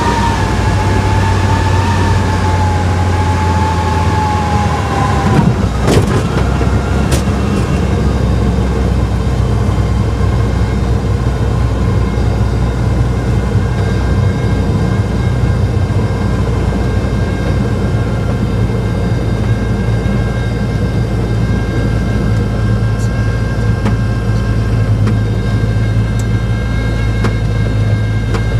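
Sling 2 light aircraft's Rotax 912 engine and propeller droning steadily, heard from the cockpit. A whining tone drifts lower and stops about five seconds in, and a couple of sharp knocks follow about a second later.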